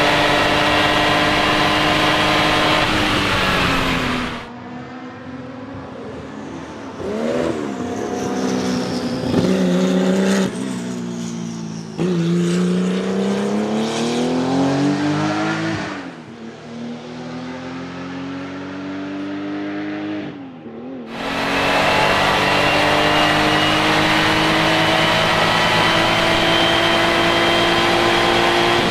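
Porsche 935 K3 Group 5 race car's turbocharged flat-six running hard at high revs. About four seconds in the sound cuts to a quieter, duller take of the engine, its revs climbing and dropping several times through gear changes. Near 21 s it cuts back to the loud, steady high-rev note, rising slowly.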